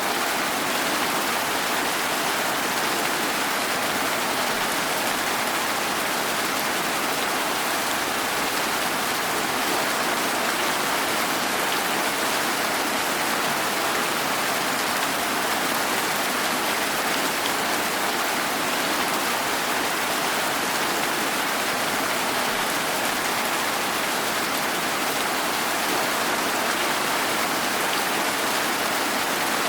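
Steady rain falling, an even hiss of rain with faint scattered drop patters, unchanging throughout.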